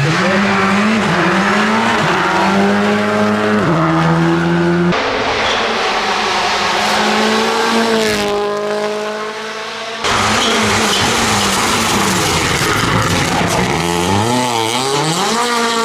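Rally cars at full speed on tarmac, their turbocharged engines revving up through gearshifts and dropping back under braking. The sound changes abruptly about five and ten seconds in, where separate runs are cut together.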